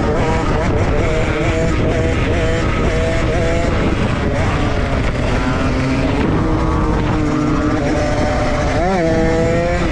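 Dirt bike engines running under way, their pitch rising and falling as the throttle is worked, with a quick rev up and back down near the end, over a steady low rumble.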